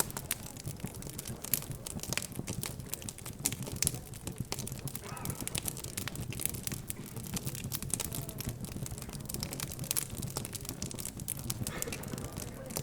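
Crackling fireplace: a wood fire popping and snapping in quick, irregular crackles over a low steady rumble.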